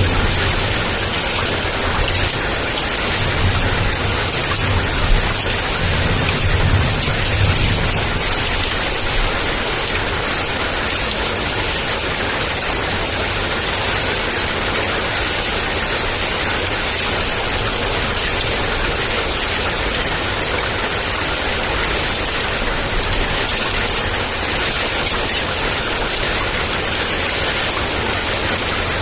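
Heavy rain pouring steadily. A low rumble of thunder runs under it for the first several seconds, then fades away.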